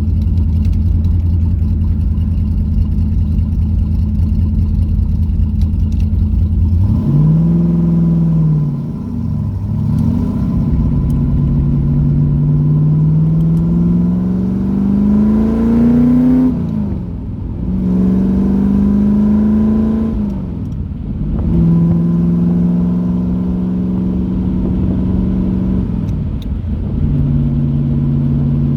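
C3 Corvette's carbureted V8 heard from inside the car: a steady low engine note, then from about seven seconds in the pitch climbs as the car accelerates, falling back several times as it shifts up through the gears.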